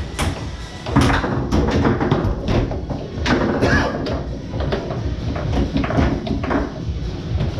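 Foosball rally on a Tornado table: a quick, irregular run of sharp knocks as the hard ball cracks off the players and table walls and the rods clack, busiest from about a second in.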